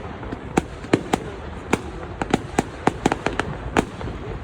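Fireworks going off at a display: an irregular run of about a dozen sharp bangs and cracks, several coming in quick succession in the middle of the stretch.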